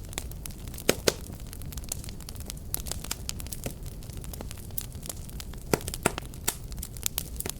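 Wood fire crackling: sharp irregular pops and snaps over a steady low rumble of flames, with two loud snaps about a second in and another near six seconds.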